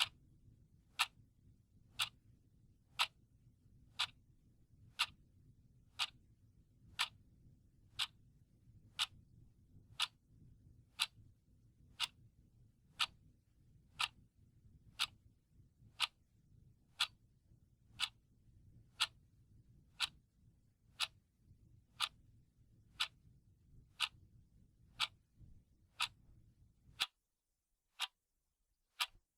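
A clock ticking steadily, one sharp tick each second. A faint low hum under the ticks cuts off about three seconds before the end.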